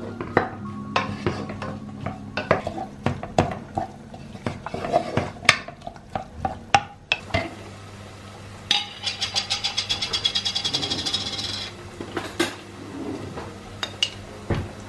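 Dishes and cutlery clinking and knocking at irregular intervals. About nine seconds in comes some three seconds of fast, even clinking, about seven strokes a second, as a utensil stirs against the side of a dish.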